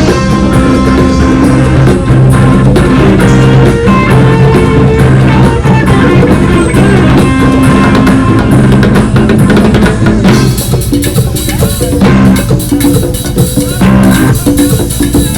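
Live band playing rock music, with drum kit, bass and electric guitar; the cymbals grow brighter about ten seconds in.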